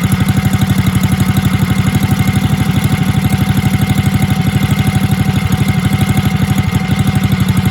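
Small single-cylinder minibike engine idling steadily, loud and close, with an even, rapid train of firing pulses.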